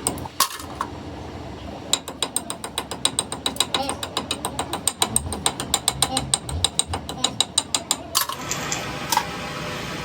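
Rapid, even clicking of a ratchet wrench being worked on bolts, about ten clicks a second. About eight seconds in the clicking stops and a steady machine-running sound takes over.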